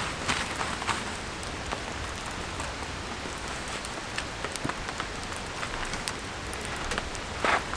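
Steady autumn rain, with irregular sharp ticks of heavier drops striking close by, a loud cluster of them near the end.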